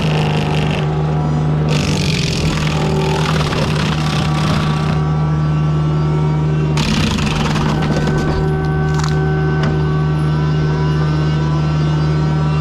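Diesel engine of heavy land-clearing equipment running steadily at high speed, with a stretch of high hissing, grinding noise over it about two seconds in and another about seven seconds in.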